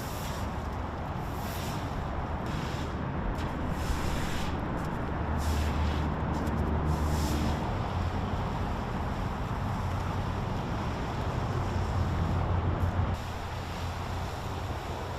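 Road traffic: a motor vehicle's low engine rumble swells around the middle and again near the end, with short bursts of hiss over a steady noise bed.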